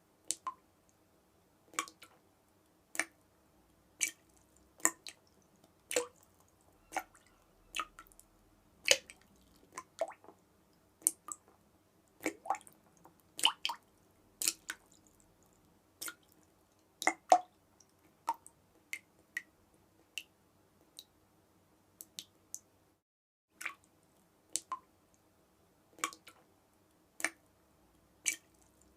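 Water dripping: single drops falling irregularly, about one or two a second, each a short sharp plink. Behind them is a faint steady drone that drops out for a moment about three-quarters of the way through.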